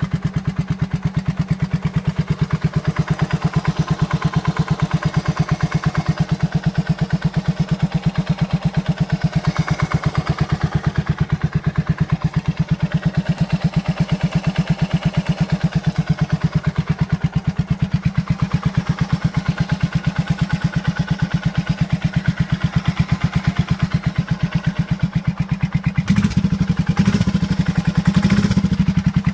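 2007 Suzuki Savage S40's single-cylinder four-stroke engine idling with an even, pulsing beat, carrying a noise that the owner asks about as possible engine knock. Near the end the throttle is blipped a few times.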